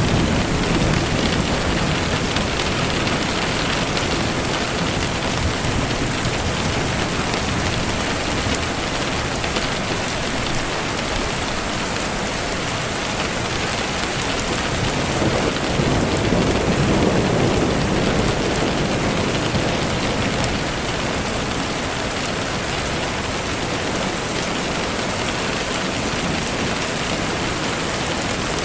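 Steady rain falling on a surface, an even hiss, with a low rumble swelling up about halfway through.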